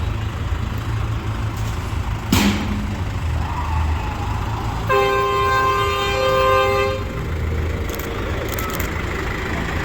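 A horn sounds steadily for about two seconds around the middle, over a continuous low engine rumble. A sharp crack comes a couple of seconds in.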